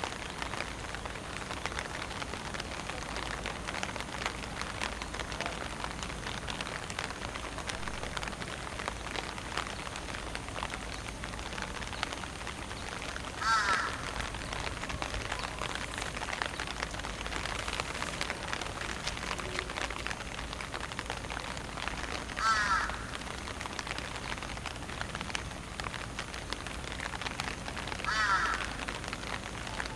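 A steady hiss, broken three times by a short, harsh bird call with a wavering pitch, once past the middle and twice near the end.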